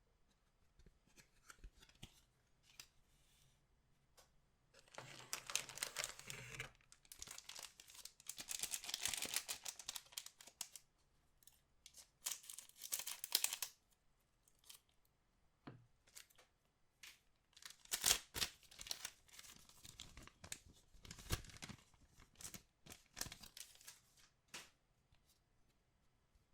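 Trading-card pack wrappers being torn open and crinkled by hand, in several rustling spells of a second or two each with small ticks between.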